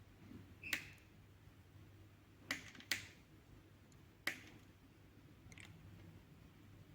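Five sharp, irregularly spaced clicks, with two close together near the middle, over a faint steady low hum.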